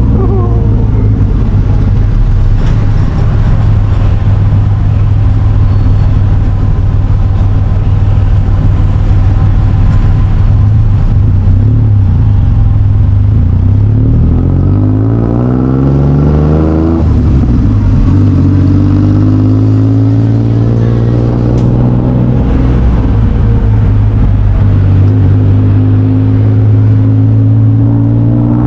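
A vehicle engine running loud and close, holding a steady pitch, then dropping in pitch around the middle as it slows before climbing steadily again as it speeds back up.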